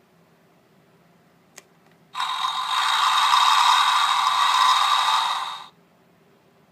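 A single button click, then a recorded sound effect of about three and a half seconds played through a children's play-a-sound book's small tinny speaker: a steady, noisy, mechanical-sounding effect with no bass, starting and stopping abruptly.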